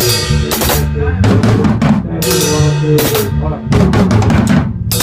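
A live band playing: a drum kit with bass drum, snare and cymbal crashes over steady bass notes and guitar.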